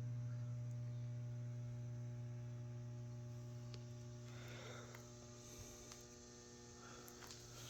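Steady low electrical mains hum from live power in the building, a low buzzing tone with higher overtones, slowly fading.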